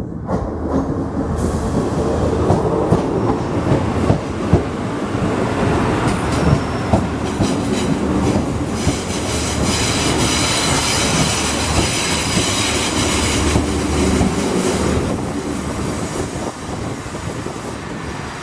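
A train running through the station, its wheels clicking over rail joints, with a high squeal from the wheels on the rails in the middle of the passage.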